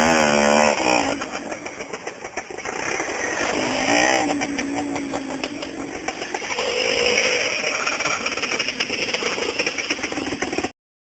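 Minsk motorcycle's two-stroke single-cylinder engine revving under riding load. The pitch rises sharply at the start, again about four seconds in and around seven seconds. The sound cuts off abruptly near the end.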